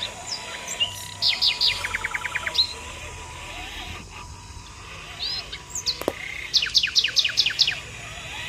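Songbirds calling: quick series of sharp, falling chirps, one burst about a second in with a rapid trill after it, and another burst near the end. A faint steady tone runs underneath, and there is a single sharp click just after six seconds.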